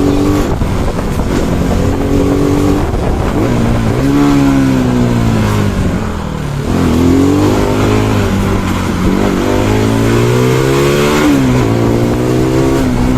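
Bajaj Pulsar NS200's single-cylinder engine and exhaust accelerating on the road, the revs climbing and dropping back with each gear change, about three times.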